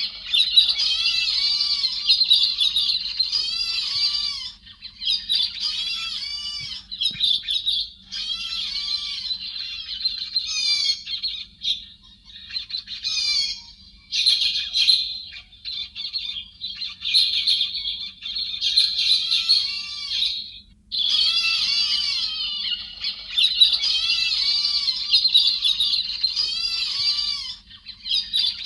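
Héc xoan birds, a kind of thrush, calling in rapid runs of short, high-pitched, arching chattering notes with brief breaks and one longer pause about two-thirds of the way through. It is a lure call used to draw in a flock of these birds.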